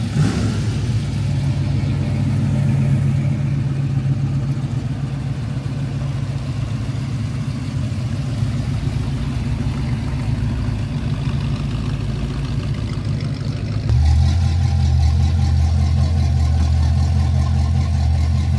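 A vehicle engine running steadily with a low hum. About fourteen seconds in it changes abruptly to a deeper, louder note.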